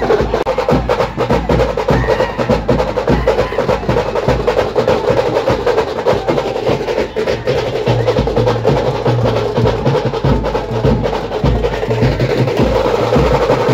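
Fast stick drumming on tingri drums, a dense run of sharp strokes like a roll, with deep bass drum beats under it.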